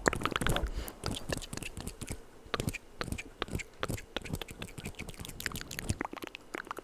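Close-miked ASMR mouth sounds: a dense, irregular run of wet clicks and smacks, several a second.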